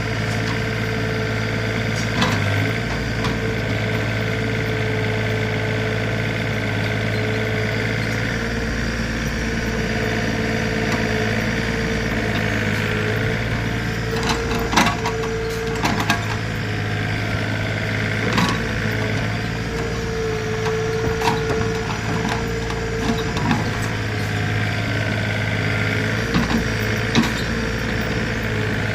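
Backhoe engine running steadily, with a handful of sharp knocks from the machine working, loudest about 15 and 27 seconds in.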